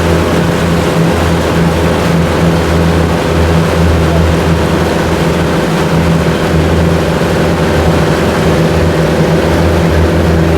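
Motorboat engine running steadily at constant speed, a loud, even low drone.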